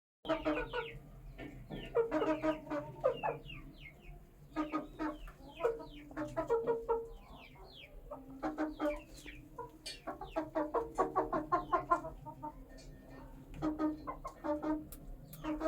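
Aseel chickens clucking in repeated bursts of quick, short calls, with brief lulls between the bursts.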